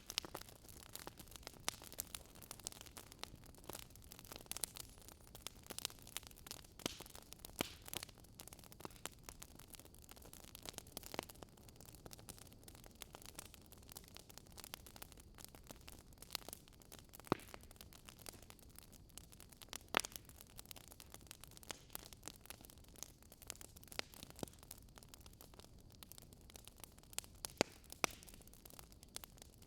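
Wood fire crackling quietly: irregular sharp pops and snaps, several a second, over a faint steady hiss.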